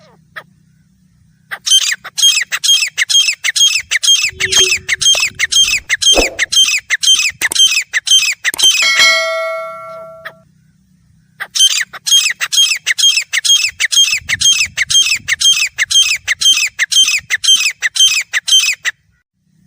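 Grey francolin calling: two long bouts of loud, rapidly repeated harsh notes, each lasting about seven seconds, with a pause between them.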